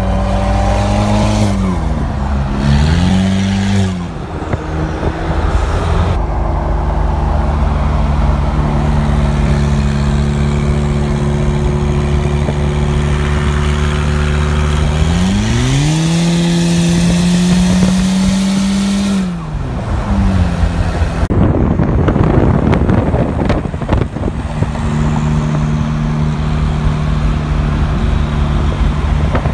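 Car engine running and revving, its pitch climbing and dropping a couple of times as the car speeds up and slows down, then a rougher rush of noise in the last few seconds.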